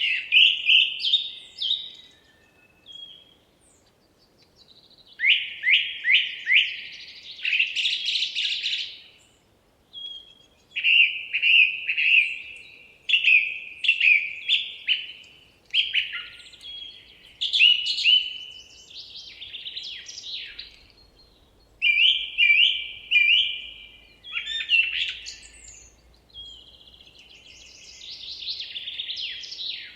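A songbird singing in repeated phrases of quick, sharp descending notes, each phrase a second or few long, with short pauses between them.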